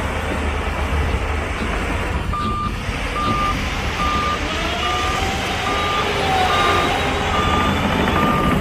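Heavy diesel machine rumbling while its reversing alarm beeps at an even pace, a little more than once a second, starting about two seconds in. From halfway through, a fainter whine rises and falls over the engine.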